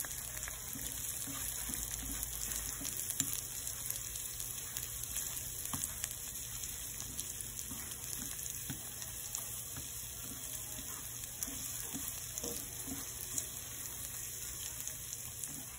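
Sliced onions sizzling in oil in a frying pan, a steady hiss with light, scattered taps of wooden chopsticks stirring against the pan.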